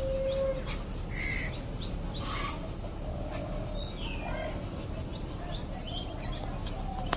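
Birds chirping and calling in short, scattered calls over a steady low background noise. A steady tone stops about half a second in.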